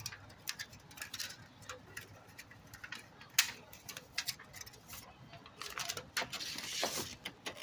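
Irregular light clicks and taps from handling tape and the register vent while running tape around its sides, with a rustling stretch near the end.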